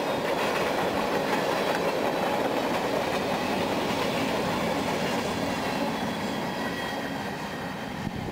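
Freight train cars rolling past, their wheels clattering steadily over the rails, easing off a little near the end.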